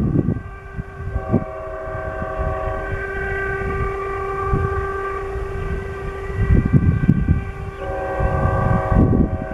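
Distant Union Pacific diesel locomotive air horn sounding two long blasts of several notes at once: the first begins about a second in, with its lowest note held on a few seconds longer, and the second starts near the end. Low rumble under the horn, with wind buffeting the microphone.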